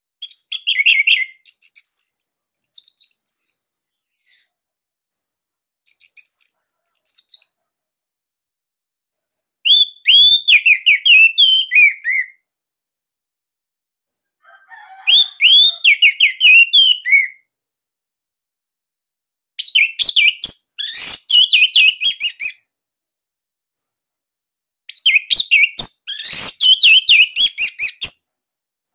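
Orange-headed thrush (anis merah) singing: six loud phrases of rapid, varied whistles and trills, each about two to three seconds long, separated by silent pauses of two to three seconds. The last two phrases are the densest.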